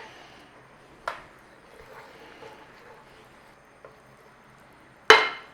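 Lemon butter sauce simmering gently in a pan on low heat, with a couple of light taps and a sharp, ringing clink near the end.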